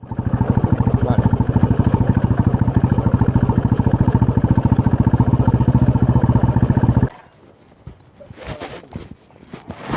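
Motorcycle engine running loudly with a rapid, even beat, cutting off abruptly about seven seconds in.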